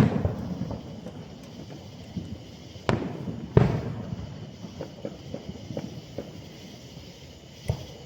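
Fireworks going off: a loud bang right at the start, two more about three and three and a half seconds in, and a smaller one near the end, with scattered smaller pops between.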